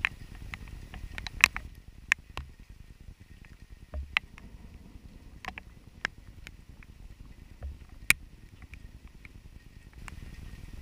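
Raindrops striking the camera in irregular sharp taps, a dozen or so, over a low steady rumble.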